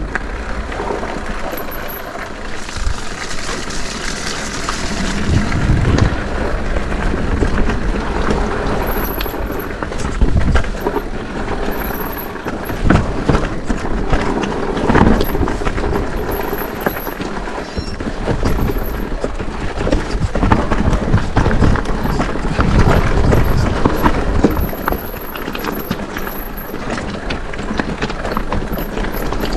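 Mondraker e-mountain bike riding over a rough, stony track: continuous tyre rumble with frequent knocks and rattles from the bike.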